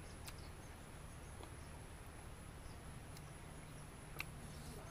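Quiet outdoor background with a few soft mouth clicks and lip smacks from chewing food, the sharpest a little after four seconds in.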